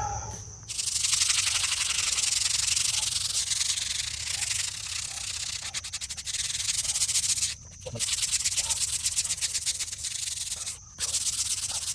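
Stiff brush scrubbing a gravestone in quick strokes, a steady rasping hiss that pauses briefly twice.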